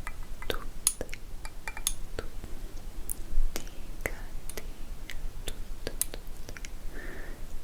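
Close-miked ASMR mouth sounds: wet tongue and lip clicks at irregular spacing, several a second, with a few soft breathy whisper sounds in between.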